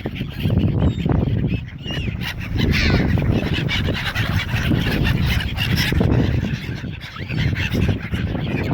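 A flock of gulls and other waterbirds calling, many calls overlapping, over a low steady rumble.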